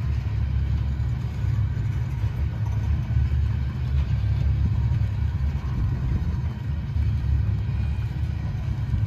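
Freight train of covered hopper cars rolling past, a steady low rumble of steel wheels on the rails.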